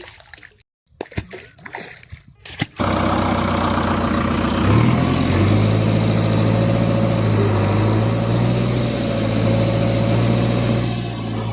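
Small splashing and clicking, then about three seconds in a heavy-vehicle engine sound starts abruptly and runs steadily, its pitch stepping up about two seconds later.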